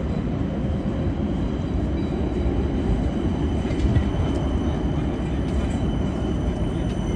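Electric commuter train running: a steady low rumble with a faint, steady high whine above it.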